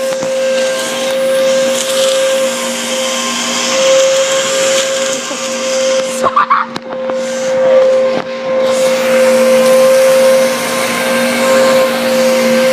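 Handheld mini vacuum cleaner running with a steady motor hum and hiss as it sucks up spilled cereal. The high hiss drops out briefly about six seconds in, then returns.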